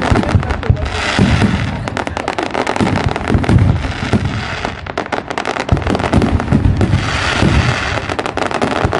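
Fireworks crackling and popping in quick, irregular succession, many bangs a second, over a steady background din.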